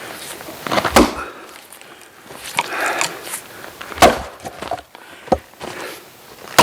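Axe blows splitting oak firewood: a heavy strike about a second in, another about four seconds in, a lighter one after it and a fourth at the end, with a brief rustle of wood between the first two.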